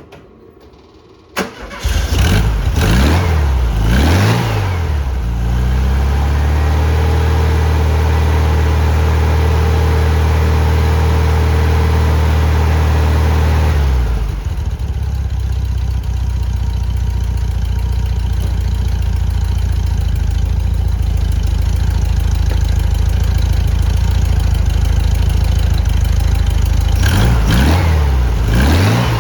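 Air-cooled Volkswagen flat-four engine starting up about a second and a half in, on its first start after a new clutch was fitted. It is blipped up and down a few times, runs at a steady fast idle, drops to a lower steady idle about halfway through, and is revved again near the end.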